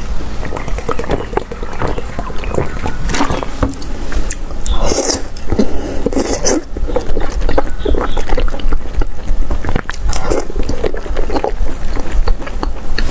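Close-miked eating of long sausages in chili broth: wet biting, chewing and sucking, with many quick mouth smacks and clicks over a steady low hum.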